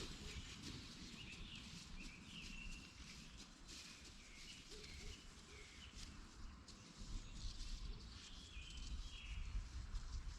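Small birds chirping in short, scattered calls, over faint clicks; about seven seconds in a low rumble comes up underneath.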